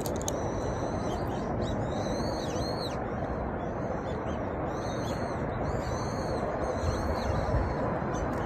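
Small birds calling in groups of quick, high, arching chirps, repeated several times, over a steady background rush.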